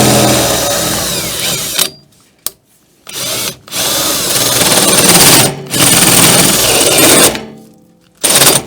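Power drill fitted with a hole saw boring into a metal door, run in trigger bursts: it stops about two seconds in, gives a short blip, then runs again in two longer spells before stopping about seven seconds in, with one more short burst near the end.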